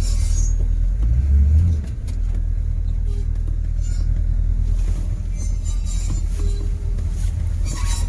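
Diesel V8 of an M1028 CUCV pickup running under load, with a brief rev-up about a second in before the revs drop back, as the truck works for traction on a snowy grade.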